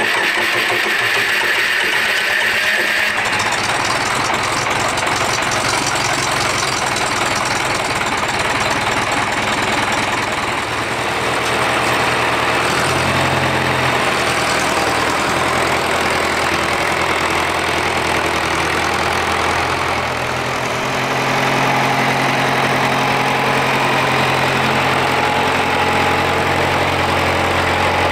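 John Deere 2510 tractor engine running just after being started, mostly at a steady idle. Its tone and loudness shift a few times, briefly dipping about a third and again two-thirds of the way through.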